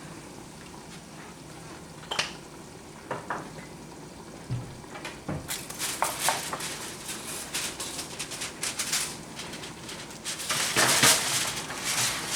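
Food sizzling and crackling in a hot pan, with a few knocks of a utensil against cookware. The sizzle starts about five seconds in and grows louder near the end.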